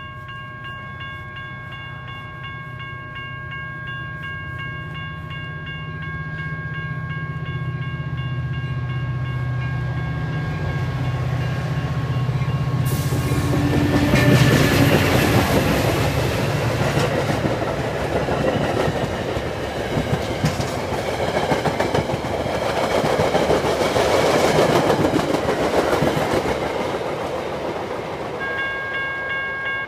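Metra diesel locomotive 193 approaching with a deep engine drone that grows steadily louder, then passing close about halfway through with a sudden loud rush. Its coaches follow with a long run of clickety-clack from the wheels over the rail joints, easing off near the end. A steady high tone sounds in the background before the train arrives and again after it passes.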